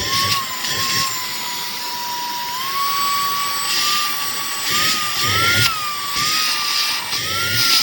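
Cordless handheld vacuum cleaner running: a steady high motor whine that steps up in pitch a few seconds in and then wavers, with repeated rushes of air noise.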